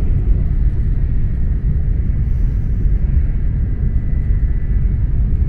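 Steady low running rumble inside the passenger cabin of a Tokaido Shinkansen Nozomi train travelling at speed.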